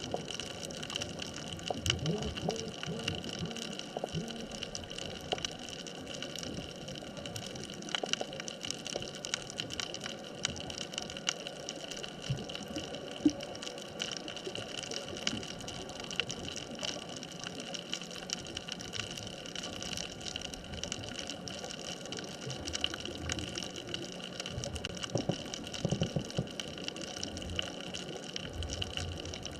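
Underwater ambience on an artificial reef: a steady hiss crackling with many small clicks, with bubbling gushes about two seconds in and again near the end.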